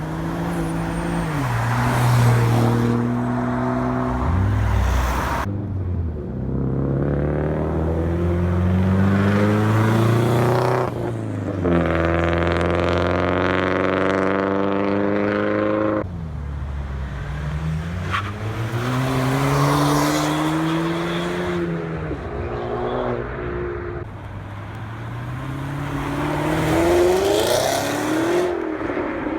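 Cars accelerating hard away one after another, engines revving up and dropping back between gear changes, in a series of short clips cut together.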